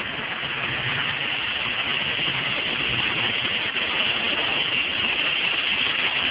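Truck engine idling steadily under an even hiss.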